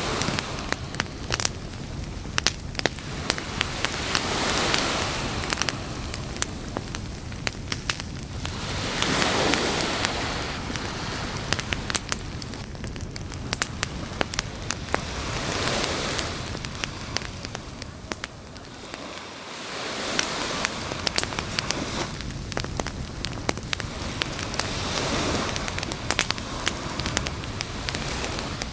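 Wood campfire crackling with frequent sharp pops, over surf that swells and washes in about every five seconds.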